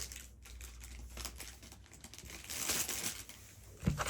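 Plastic bag of LEGO pieces crinkling as it is handled and opened, louder about two and a half seconds in, with a sharp click near the end.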